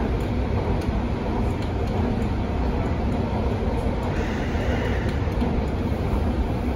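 MTR Tung Chung line A-train electric multiple unit running along the track: a steady low rumble, with a brief higher hiss about four seconds in.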